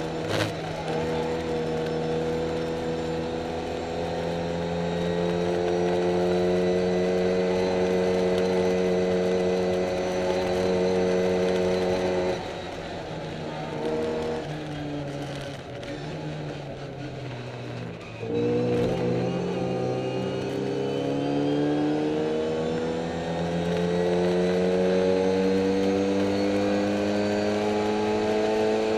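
Classic Mini race car's four-cylinder engine heard from inside the cockpit at full throttle, its pitch climbing steadily through a long pull after a quick gear change near the start. About twelve seconds in the throttle lifts and the revs fall away under braking for several seconds, then the engine is back on full throttle and climbing again. The car is running down on power.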